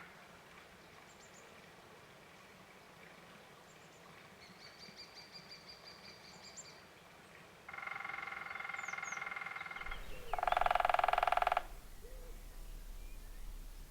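Woodpecker drumming on wood: a rapid roll lasting about two seconds from a little past the middle, then a second, louder roll of about a second and a half right after it. Small birds chirp faintly and a thin high trill is heard earlier on.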